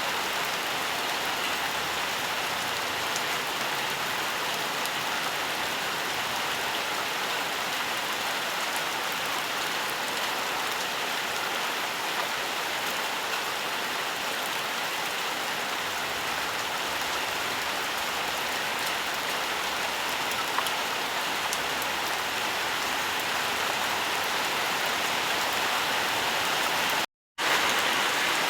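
Steady rain falling: an even hiss with faint scattered ticks of individual drops. The sound cuts out completely for a split second near the end.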